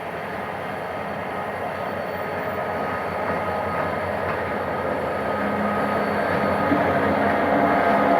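GM GT22CW-2 diesel-electric locomotive hauling a passenger train as it approaches, a steady rumble of engine and wheels growing louder throughout.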